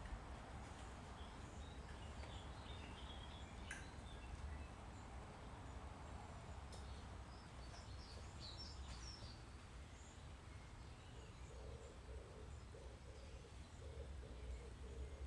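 Faint outdoor ambience with distant birds calling: scattered short high chirps, then from about two-thirds of the way through a low call repeated over and over, over a low rumble of wind.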